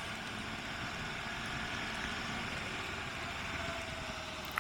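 Motorcycle being ridden on a wet road: a steady mix of engine and wind and road noise.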